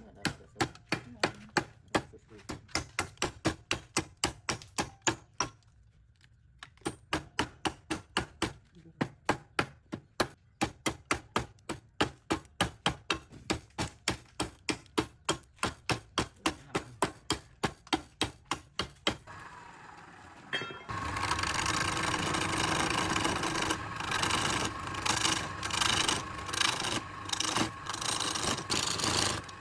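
Rapid, regular knocks on wood, about three or four a second, with two short pauses. About 21 seconds in they give way to a louder, steady rasping and rubbing noise of wood being worked.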